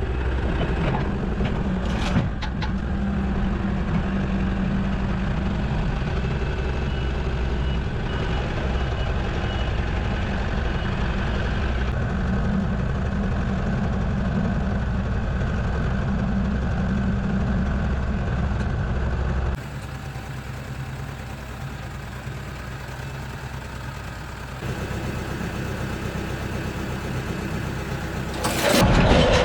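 An engine running steadily. About two-thirds of the way through it drops back to a lower level, then picks up a few seconds later and rises sharply just before the end.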